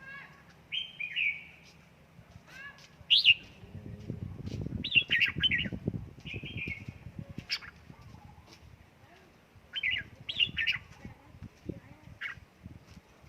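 Red-whiskered bulbul calling in short, bright, sliding phrases, repeated every second or two, with bursts of rustling and fluttering about four seconds in and again near ten seconds.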